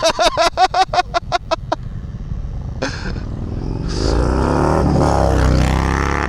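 A quick run of short, pitched pulses, then a motorcycle engine revving up, its pitch rising and its level climbing about four seconds in.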